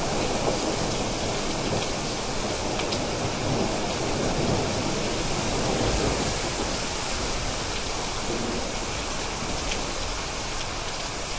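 Steady rain with a few scattered drips, and a low rumble of thunder dying away in the first few seconds.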